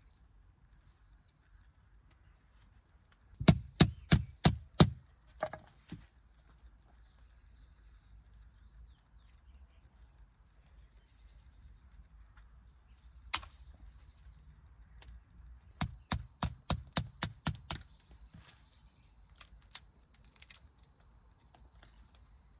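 Dry wooden knocks of a dense stick being struck to break it up for the fire: a run of about five sharp blows a few seconds in, a single knock, then a faster run of about ten blows past the middle. Faint birdsong chirps in the gaps.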